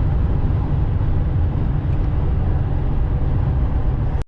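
Steady low rumble of a semi-truck's engine and road noise heard from inside the cab while driving. The sound cuts out abruptly right at the end.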